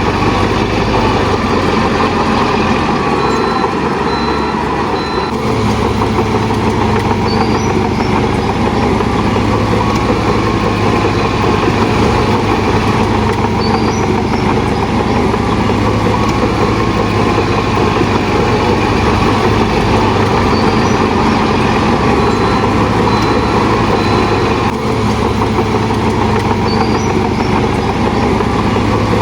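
Heavy diesel earthmoving machinery running steadily with a constant low engine hum, with a few faint, short high chirps every several seconds.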